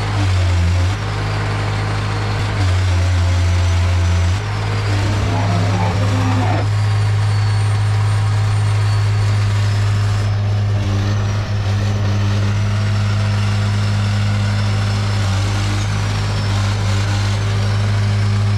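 Diesel engine of a Case 170B excavator running, its note shifting a few times in the first seconds as the load changes, then settling into a steady run.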